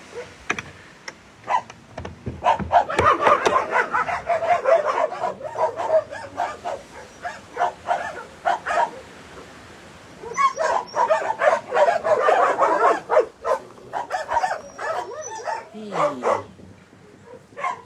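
Several dogs barking and yipping together, with many short overlapping barks in two bouts: one a few seconds in and a second starting about ten seconds in, with scattered single barks between.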